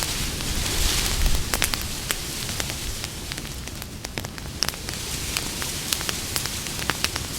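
Campfire burning: irregular sharp crackles and pops over a steady hiss and low rumble of the flames, with a brief surge of hiss about a second in.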